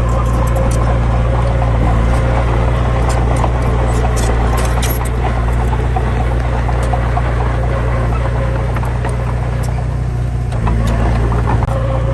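Heavy diesel engine running steadily with a loud, low drone, over scattered light clicks and rattles; the engine note shifts briefly near the end.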